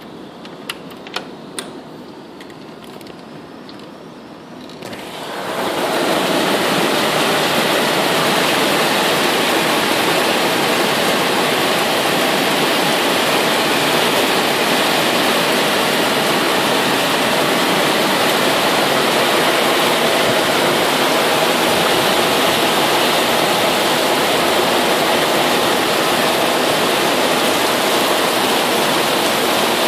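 Heavy rain: lighter at first with a few sharp taps, then about five seconds in it swells quickly into a loud, steady downpour.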